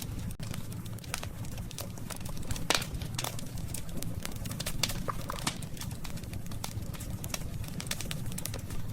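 Wood campfire burning: a steady low rumble of flames with frequent sharp crackles and pops, one louder pop about two and a half seconds in.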